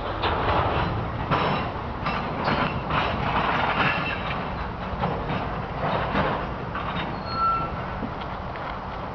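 Freight train rolling past at low speed, the cars clanking and knocking over the rails, with a brief high metallic squeal about seven seconds in.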